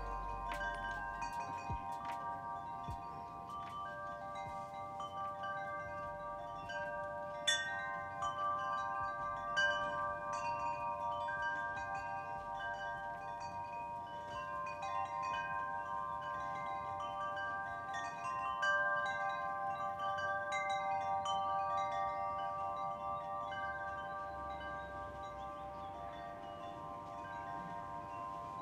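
Wind chimes ringing continuously: many overlapping, sustained metallic tones with fresh strikes every so often, and a few light clicks.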